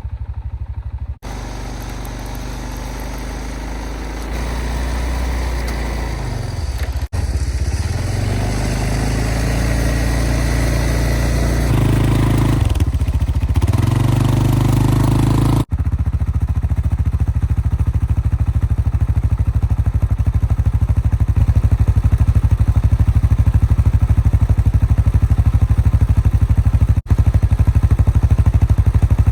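ATV engine running under load as it pushes through deep snow, its pitch dropping and climbing back twice, around a third and half of the way through.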